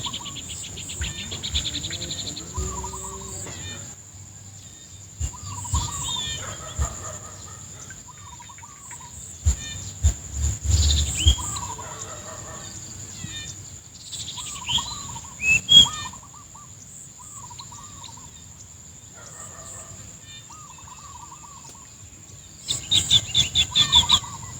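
Outdoor birdsong: many short repeated chirps and sweeping calls, with a fast rattling series of calls near the end, over a steady high-pitched buzz. A few low thumps come around the middle.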